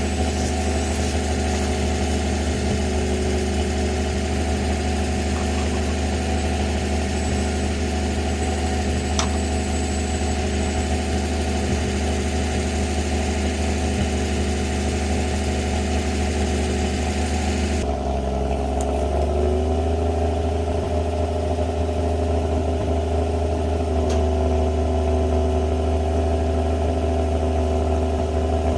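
Winch truck's engine running steadily at a low speed. About two-thirds of the way through the sound changes abruptly: the engine note dips and then settles again.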